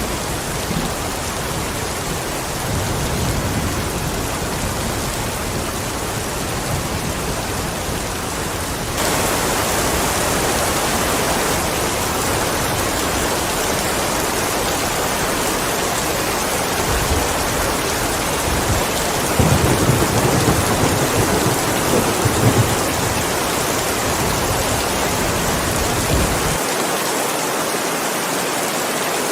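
Steady heavy rain with rumbles of thunder. About a third of the way in, the rain turns louder and hissier. A longer thunder rumble swells past the middle, and the deep rumble drops away near the end.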